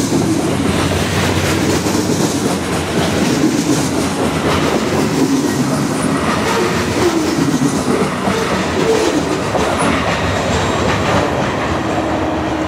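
Freight cars of a long train rolling past at speed: a steady rumble and clatter of steel wheels on the rails, dropping slightly near the end as the last car passes and moves away.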